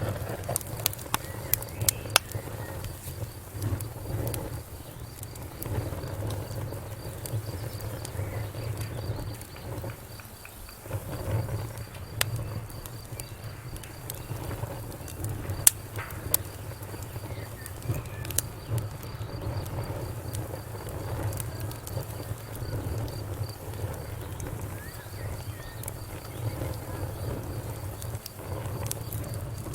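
Wood fire crackling, with irregular sharp pops and snaps over a low steady rumble of burning; one pop about halfway through is the loudest.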